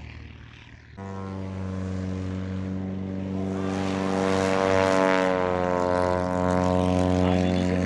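Maule M-5's Lycoming 540 engine and propeller at full takeoff power, a steady propeller drone that cuts in suddenly about a second in. It grows louder toward the middle and dips slightly in pitch as the plane passes.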